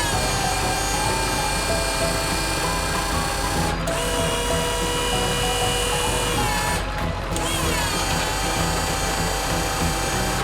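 A whining power-drill sound effect, held steady and cut off twice, each restart opening with a falling sweep in pitch, over background music.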